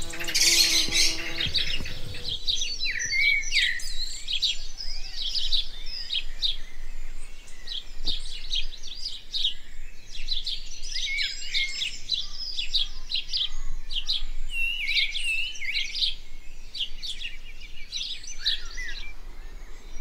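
Garden birds singing: a busy stream of short, quick high chirps and trills with small whistled glides.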